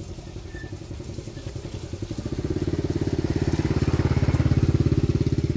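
A small vehicle engine running with a fast, even beat. It grows louder from about two seconds in and is loudest near the end, as if coming close by.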